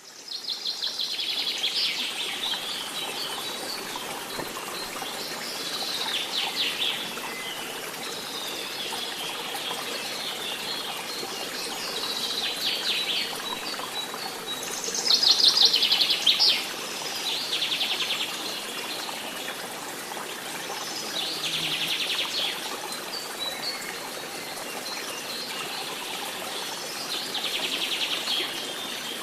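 Songbirds singing in a forest: one bird repeats a short, fast trilled phrase that falls in pitch, about every three to six seconds, over a steady background of fainter chirping.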